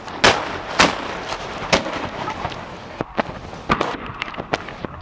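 Aerial fireworks shells bursting: a string of loud booms with echoing tails, about seven in five seconds, the loudest in the first two seconds, followed by quicker, smaller popping bursts toward the end.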